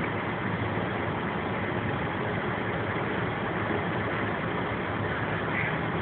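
A vehicle engine running steadily over a continuous noisy rush, with no change in level.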